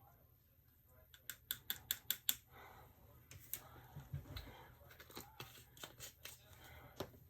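Faint quick clicks, about eight in a second, then scattered taps and light scraping: a small scoop tapping and scraping against a container as pigment is scooped into resin.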